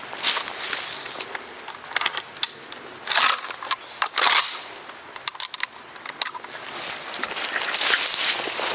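Dry leaves rustling and crackling in irregular bursts, with scattered sharp clicks; the rustling thickens near the end.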